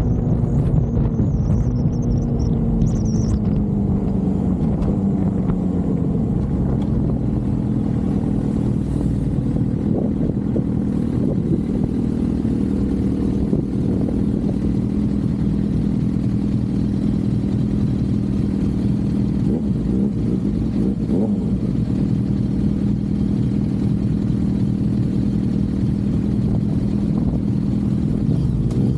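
Suzuki GSX-R750 inline-four engine running at steady cruising revs. Its pitch eases down a little in the first few seconds, then holds even.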